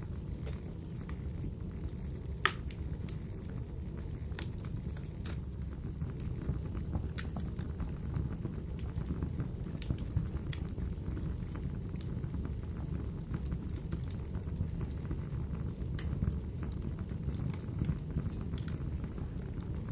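Wood fire crackling: scattered sharp pops and snaps over a low steady rumble of burning, the loudest pop about two and a half seconds in.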